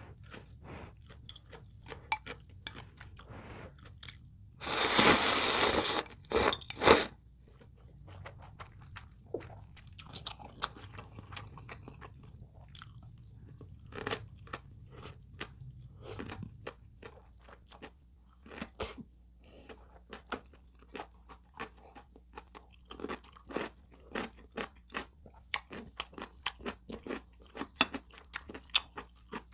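Close-miked chewing and crunching of food, many small crisp clicks in a row, with one loud rushing burst lasting over a second about five seconds in.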